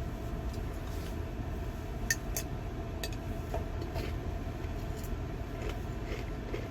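Steady low rumble of a vehicle heard from inside its cab, with a faint steady hum and a few light sharp clicks about two to three seconds in.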